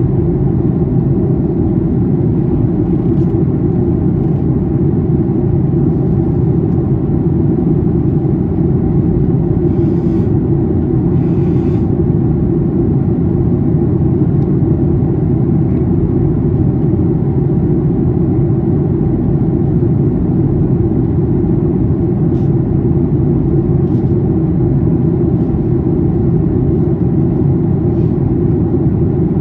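Steady cabin roar of a Boeing 737-800 in descent, from its CFM56 engines and the airflow over the fuselage, heard from inside the cabin. The roar is deep and even. Two brief soft hisses come about ten seconds in.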